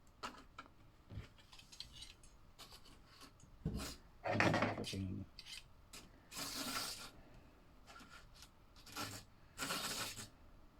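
Plastic slot-car parts being handled: scattered light clicks and several short rubbing, scraping sounds, the loudest about four seconds in.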